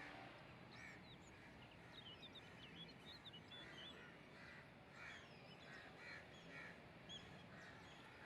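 Faint bird calls: a series of short, harsh, repeated calls with quick high chirps of small birds among them.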